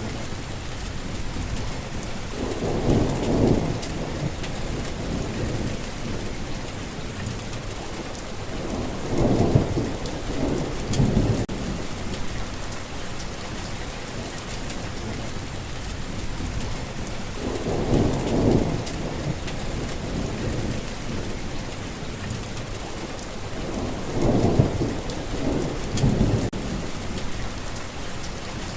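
Steady rain falling on a forest path, with short low rumbles of thunder swelling up about six times, mostly in pairs.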